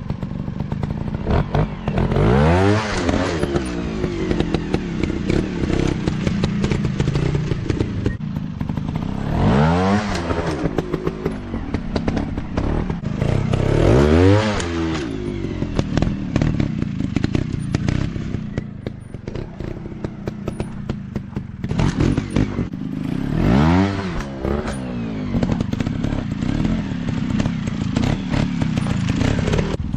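Dirt bike engine running, revving up and dropping back four times, with rattling knocks from the bike throughout.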